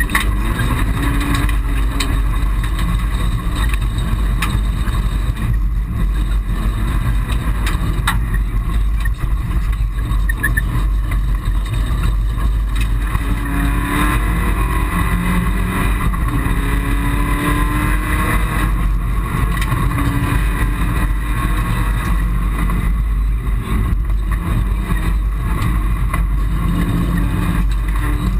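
Mitsubishi Colt rally car's engine heard from inside the stripped, roll-caged cabin at full stage pace, its revs repeatedly rising and falling over a steady low rumble.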